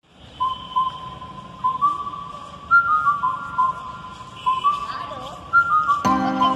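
A melody whistled note by note, a short tune of held and stepping notes; fuller backing music with a bass line joins in about six seconds in.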